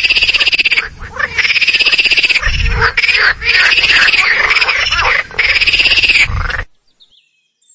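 Squirrel chattering: four bursts of a rapid, high-pitched trilling chatter, each a second or more long, with short pauses between them.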